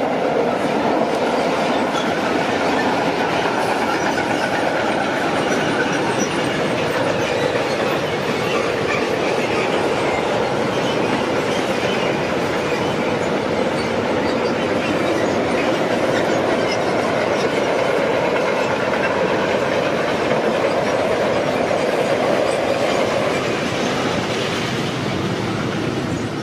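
A train passing close by: a steady loud rumble and rattle of wheels on the rails, with clickety-clack from the wagons, running on for over twenty seconds before cutting off at the end as the train clears.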